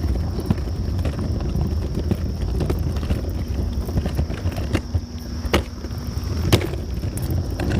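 Walking footsteps, roughly one step a second, over a steady low rumble. Two sharper clicks come about five and a half and six and a half seconds in.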